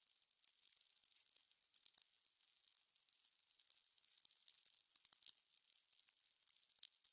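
Fire crackling: a continuous hiss of irregular small pops and snaps, with a few sharper snaps about five seconds in.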